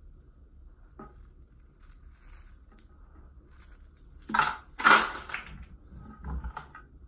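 Handling and crunching of hard materials: scattered faint clicks and rustles, then two loud scraping crunches about four and five seconds in, followed by a few smaller knocks.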